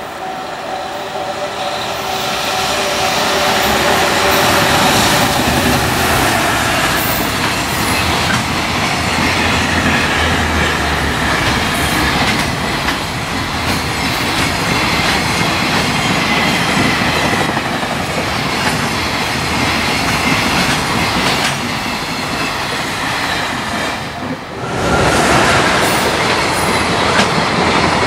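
Long container freight train passing close by at speed: a loud, steady rumble with wheels clattering over rail joints, building over the first few seconds as the train arrives. The sound drops away for a moment near the end, then comes back just as loud.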